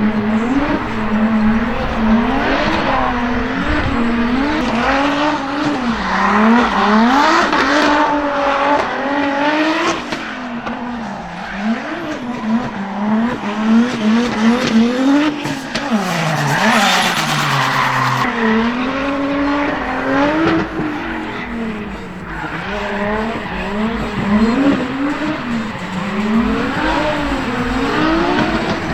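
Drift car engine revving hard and swinging up and down in pitch as the driver works the throttle through a slide, with tyres screeching in bursts. Near the middle the revs drop low for a moment, then build again.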